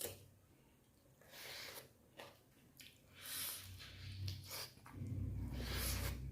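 Wet chewing and squishing mouth sounds of someone eating chicken gizzards close to the microphone, in short separate bites. A low hum comes in about four seconds in.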